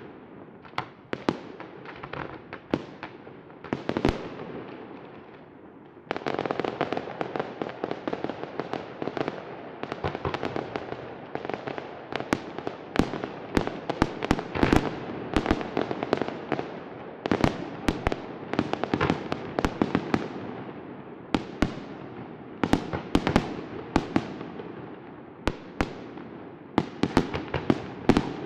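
Fireworks display: a rapid, irregular series of sharp bangs from bursting shells. About six seconds in the bursts thicken and a continuous wash of noise sets in beneath them, with the bangs coming thick and fast after that.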